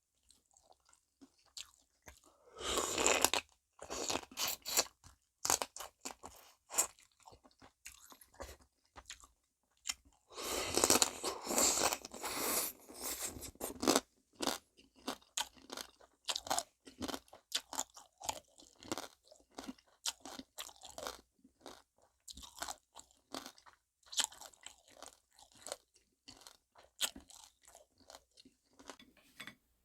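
Close-up crunching and chewing of soy-sauce-marinated stone crab, the shell cracking between the teeth. There are loud spells of crunching about three seconds in and again from about ten to fourteen seconds, with quieter crackles and chewing in between.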